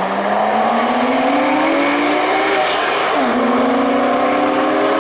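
Porsche 911 flat-six accelerating hard, its note rising steadily, dropping for an upshift about three seconds in, then rising again.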